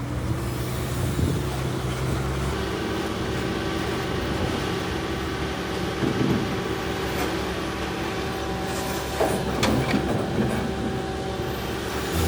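Heavy earthmoving machinery working: a steady diesel engine drone with a held whine. A few short knocks and rattles come about nine to ten seconds in.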